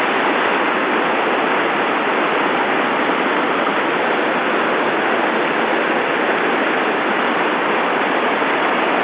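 Waterfall in a mountain gorge, a steady rush of falling water.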